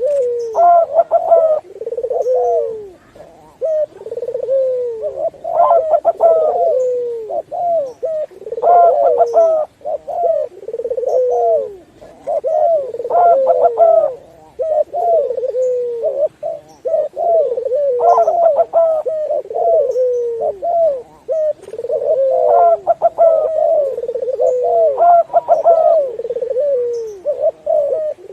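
Doves cooing: repeated low cooing phrases every two seconds or so, with faint high chirps in between.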